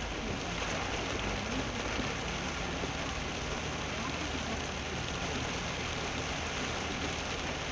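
Heavy rain falling steadily on a moving car, over a low, steady rumble of engine and tyres on a wet road.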